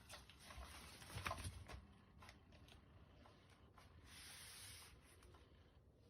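Faint scratching and rubbing in two bouts: one over the first couple of seconds, with a sharper knock partway through, and another about four seconds in.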